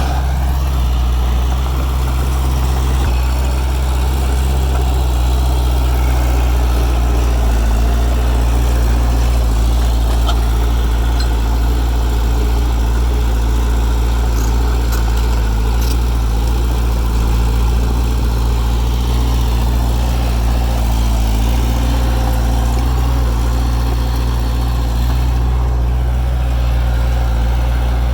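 A heavy machine's diesel engine running steadily at an even speed, with a deep hum and no revving.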